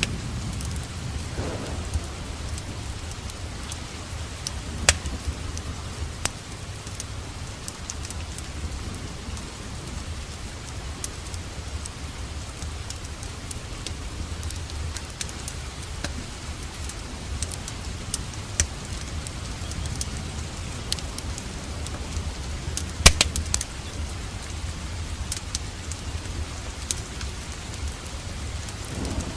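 Steady rain with scattered sharp pops and crackles of a wood fire in a fireplace, the loudest cluster of cracks about three-quarters of the way through.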